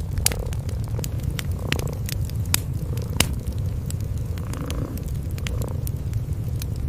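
Domestic cats purring in a steady low rumble, with a fireplace fire crackling over it in scattered sharp pops.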